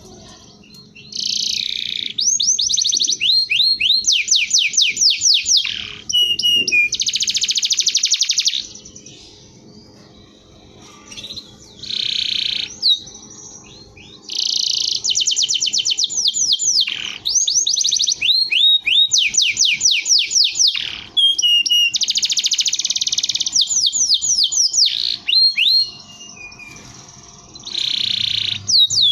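Domestic canary singing in long phrases of fast trills and rapidly repeated notes, with short pauses between phrases and a longer lull about ten seconds in.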